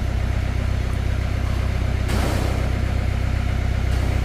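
A vehicle engine idling steadily, with a brief hiss about two seconds in.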